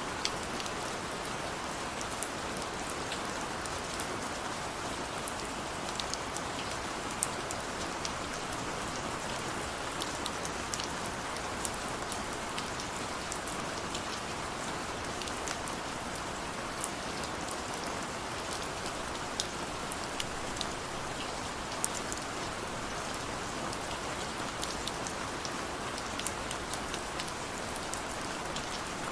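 Steady rain falling, a constant hiss with scattered distinct drops ticking on a surface.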